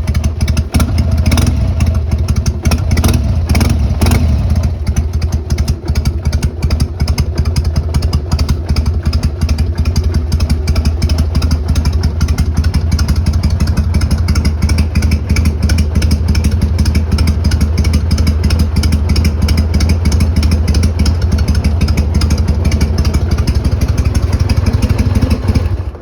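Harley-Davidson Sportster 883 Hugger's air-cooled V-twin idling through Motor Stage brass-end mufflers, with a straight-pipe tone at lower volume. A few brief sharp bursts in the first four seconds, then steady idling that stops suddenly near the end.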